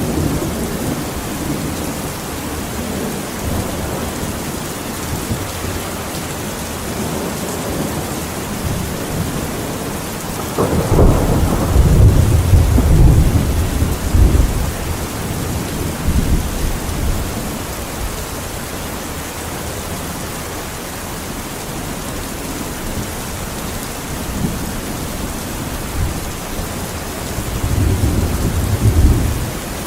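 Steady rain with rolling thunder: a long low rumble starts about ten seconds in and is the loudest part, and a shorter rumble comes near the end.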